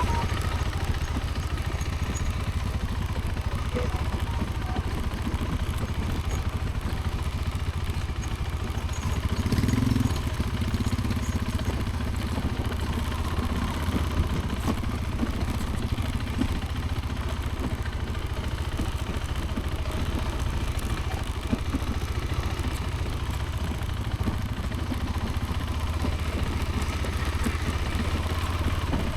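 KTM Adventure motorcycle engine running steadily while riding, a constant low rumble with a slight swell about ten seconds in.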